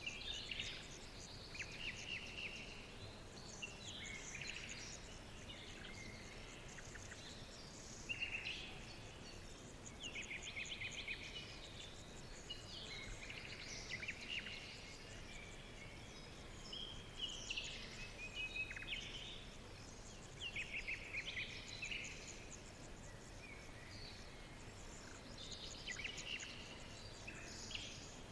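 Forest birds singing and calling: scattered chirps and short rapid trills come every second or two over a steady soft background hiss.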